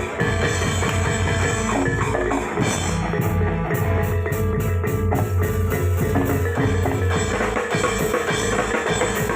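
Reog Singo Kubro accompaniment music: drums and percussion playing a steady dense beat, with a held note running through.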